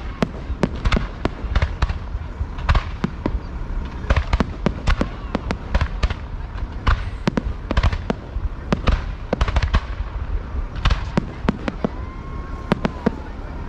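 Fireworks display heard close to the launch site: a dense, irregular barrage of sharp bangs and crackles, several a second, over a steady low rumble.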